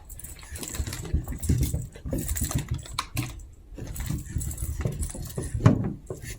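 Two Chihuahua puppies play-fighting: irregular scuffling and clicking, with small vocal grunts and a louder burst a little before the end.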